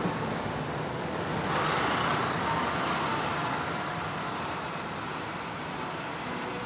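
Jet boat's engines running steadily, a dense mechanical noise at an even level.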